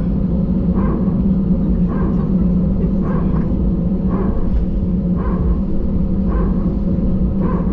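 Steady low drone inside an Airbus A320 cabin, from the engines and air conditioning. A soft, short bump recurs about once a second throughout.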